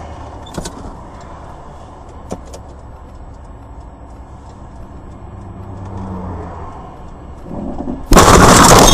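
Car running with a steady low engine and road rumble, as heard from a dashcam, with a few faint clicks. Near the end, a sudden, very loud, harsh noise cuts in at full volume and keeps going.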